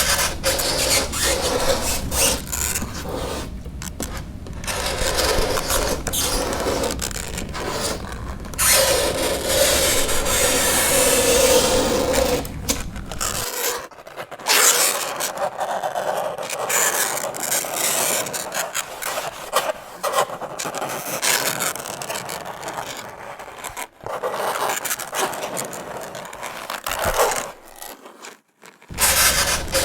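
Fingernails scraping across a chalkboard: a continuous rasping screech, broken a few times by short pauses between strokes. A low rumble runs under the first half and comes back near the end.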